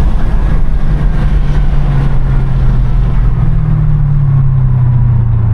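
Chevrolet Camaro SS V8 engine droning with road noise from inside a moving car at speed, its pitch slowly falling as the car slows down.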